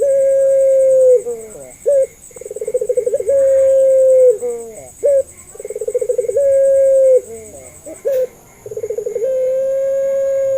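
Puter pelung, a long-cooing ringneck dove, cooing over and over: each call is a quick rolling stutter that runs into a long, low held coo ending in a downward slide, about three calls in all. A single sharp click sounds about eight seconds in.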